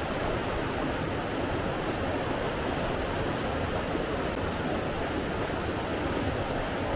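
Steady rushing of flowing water, even and unbroken, without distinct splashes or other events.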